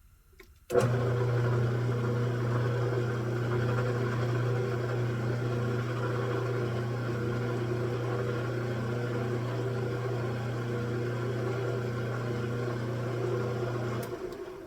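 Metal lathe spindle and motor switched on, running at a steady speed with a low hum for about thirteen seconds, then switched off near the end.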